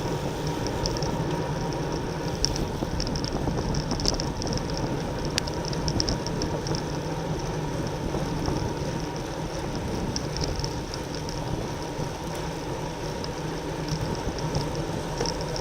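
Steady wind rush on the microphone with the tyre and drivetrain noise of a road bike ridden at race speed.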